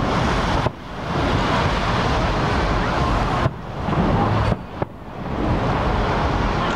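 Aerial firework shells bursting over water, heard as dull booms under a steady rush of wind on the microphone. The sound dips sharply about three times and swells back.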